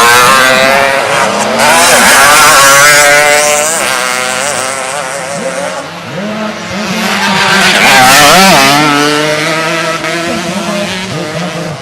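Several racing underbone motorcycle engines revving hard and changing pitch as the bikes pass close by, loudest about two seconds in and again about eight seconds in.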